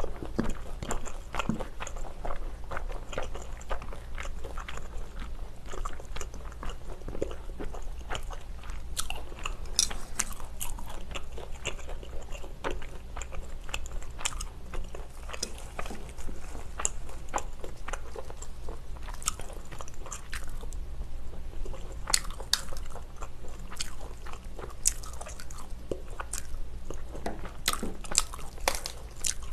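Close-miked chewing and crunching of mouthfuls of spicy stir-fried pork and rice, with many short wet clicks and crunches. Near the end come crisper crunches as fresh lettuce leaves are bitten in a lettuce wrap.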